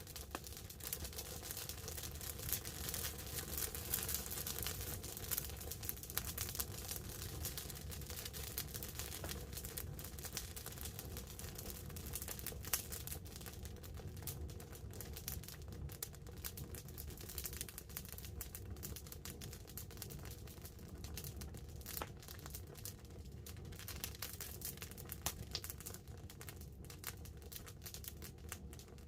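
Wood campfire crackling, with frequent sharp pops and one louder pop about halfway through, over a steady hiss of light rain on the tarp overhead.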